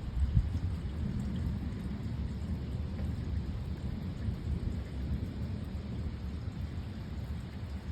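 Rain falling steadily under a long low rumble of thunder, loudest about half a second in.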